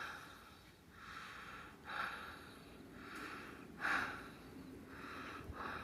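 Faint breathing and sniffing close to the microphone, soft breaths about once a second.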